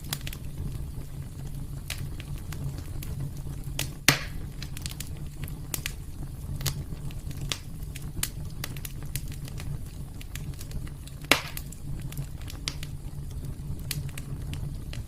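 Wood fire burning in a fireplace, crackling with frequent small snaps over a steady low rumble, and two louder pops about four seconds in and near eleven seconds.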